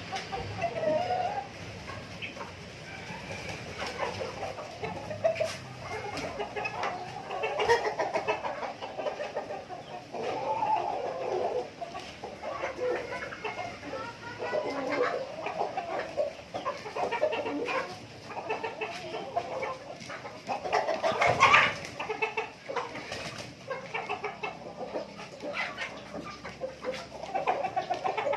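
A flock of native chickens clucking continually in short overlapping calls, with scattered light clicks. One louder, sharper call stands out about three-quarters of the way through.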